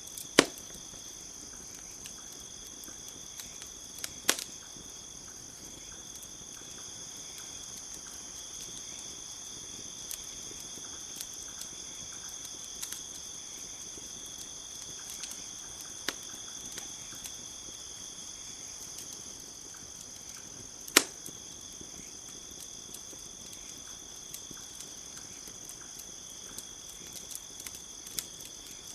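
Crickets chirping in a steady high-pitched drone, with a wood campfire crackling over it: three loud sharp pops and scattered light ticks.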